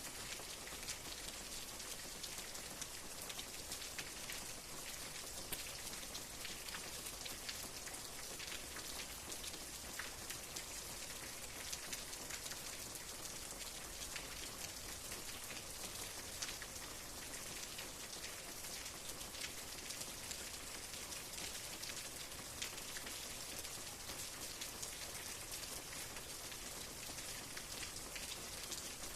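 Steady rain with a dense patter of individual drops striking a surface, the hiss strongest in the high range.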